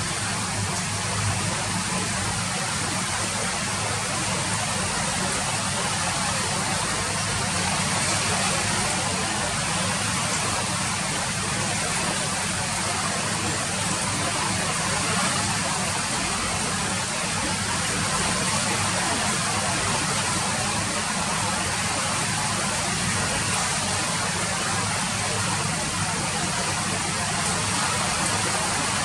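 Steady rain falling, an even wash of noise with no let-up.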